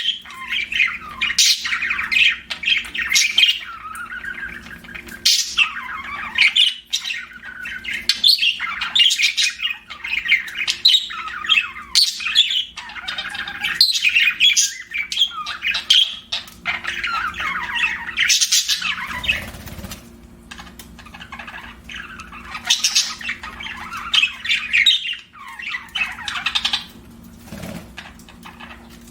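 Budgerigars chattering: fast, warbling runs of chirps and squawks, nearly continuous, easing off briefly about two-thirds of the way through. A faint steady hum lies underneath.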